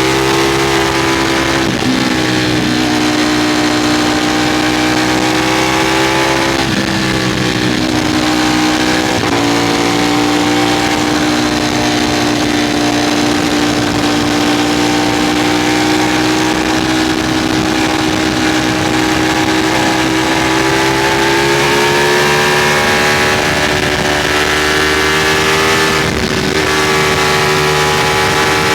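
Ducati Streetfighter V4's V4 engine pulling hard at speed, its pitch climbing slowly, with quick gear changes about 2, 7, 9 and 26 seconds in, over steady wind rush.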